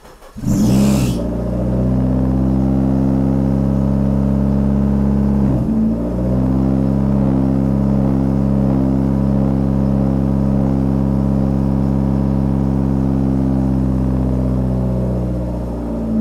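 Forged 2.1-litre turbocharged SR20 four-cylinder in a Nissan 180SX, started from a push-button starter. It catches about half a second in with a short flare, then runs at a steady fast idle. It dips briefly about five and a half seconds in, and the idle drops near the end.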